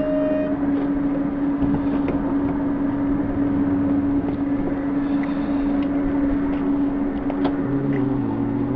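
Steady electrical hum of a standing electric double-deck passenger train, with a few light knocks as passengers board through its door.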